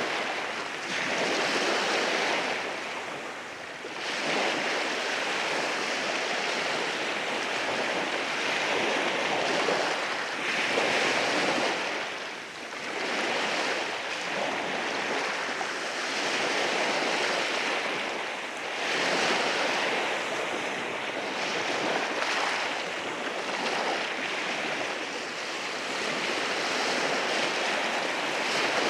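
Waves breaking and washing in over rocks, a continuous surging hiss that swells and eases every few seconds.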